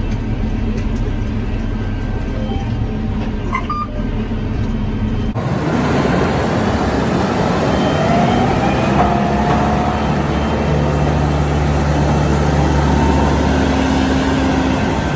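Farm machinery engine running steadily with a low hum. About five seconds in, the sound changes abruptly to a louder engine running under a hiss.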